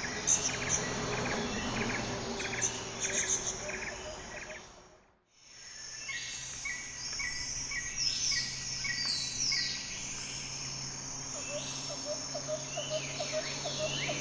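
Outdoor chorus of small birds chirping repeatedly and insects trilling, with some falling whistled bird calls. The sound fades out briefly about five seconds in, then picks up again, and a quick ticking call joins near the end.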